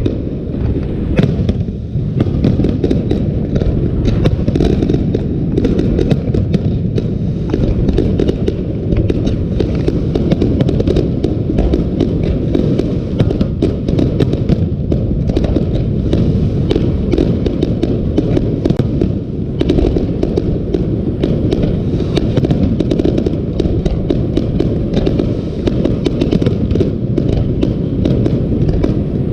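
Fireworks going off in a continuous barrage, dense booms and crackles running into one another without a break.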